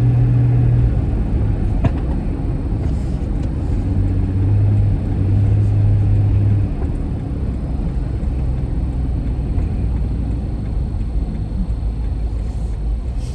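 Car engine running, heard from inside the cabin as a steady low rumble, with a low hum that shifts in pitch a few times.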